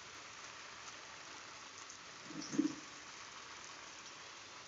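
Steady rain falling, a faint even hiss, with one brief low sound about halfway through.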